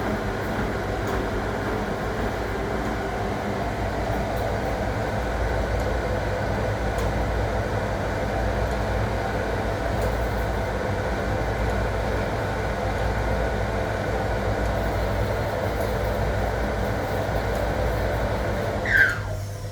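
1961 AEG Lavamat Noris washing machine running with a steady mechanical rumble and hum. Near the end a short squeak sounds, and the running noise cuts off.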